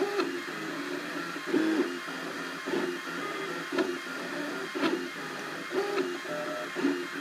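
Cubify 3D printer printing: its stepper motors whine in short pitched runs that jump from note to note as the print head moves, swelling louder about once a second, with faint ticks.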